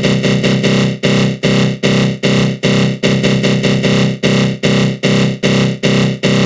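Synthesized 'attack growl' sound effect from a synth run through a flanger: a dense, gritty tone pulsing in even beats about two and a half times a second.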